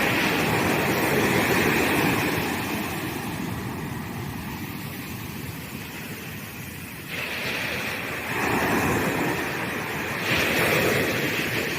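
Ocean surf breaking on a sandy beach: a steady wash of waves that eases off, then swells up again with a fresh break about seven seconds in and further surges after.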